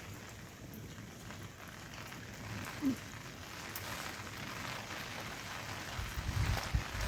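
Steady rain falling, with scattered individual drops ticking. A brief low sound comes near the middle, and low thuds set in about a second before the end.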